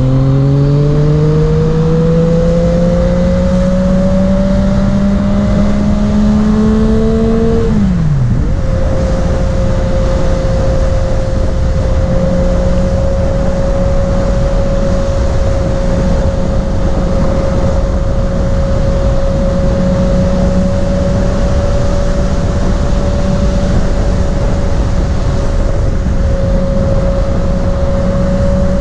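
Yamaha MT-09 motorcycle's three-cylinder engine accelerating, its pitch climbing steadily, then dipping sharply about eight seconds in before settling into a steady cruise at an even pitch. A constant rush of wind and road noise runs underneath.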